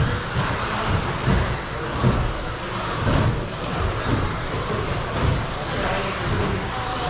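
Several RC stadium trucks racing around a track: a steady mix of motor whine and tyre noise, with frequent irregular thumps.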